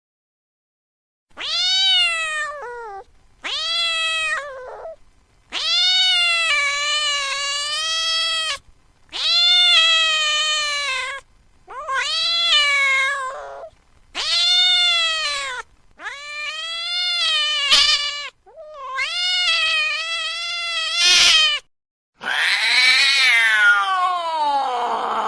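A cat meowing over and over in long, drawn-out cries, about nine of them, each lasting one to three seconds with short gaps between. The last cry slides down in pitch.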